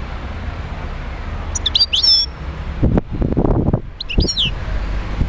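European goldfinch calling: two short bursts of quick, high, sweeping twittering notes, about one and a half and four seconds in, over a steady low hum, with a muffled lower noise between them.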